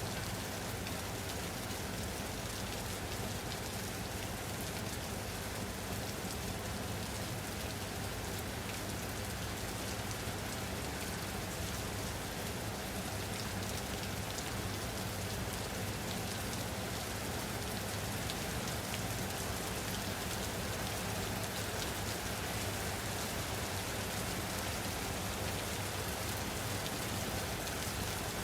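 Steady rain falling on a surface: an even hiss with many small drop ticks, unchanging throughout.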